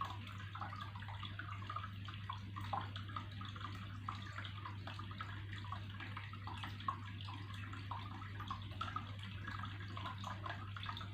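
Water trickling steadily, with a constant patter of small splashes and bubbling plinks, over a steady low hum.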